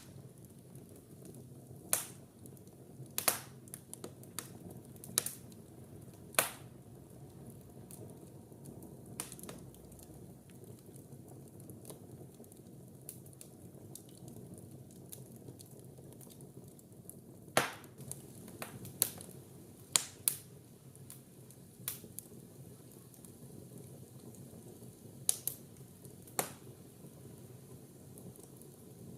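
Wood fire burning in a fireplace: a soft steady hiss with sharp, irregular crackles and pops from the burning logs, some in quick clusters.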